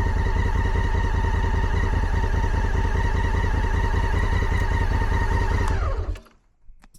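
Motorcycle engine running steadily. About six seconds in its pitch falls and the sound cuts out almost to silence, with a few sharp clicks near the end.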